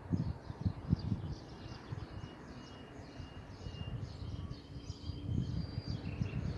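Outdoor ambience: an irregular low rumble buffeting the microphone, with small birds chirping and twittering steadily in the background and a few thin, drawn-out whistled notes.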